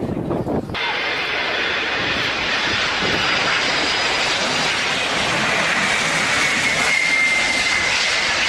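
Antonov An-225's turbofan jet engines running during a landing approach. Under a second in it comes in suddenly as a loud, steady rush with high whining tones that waver slightly.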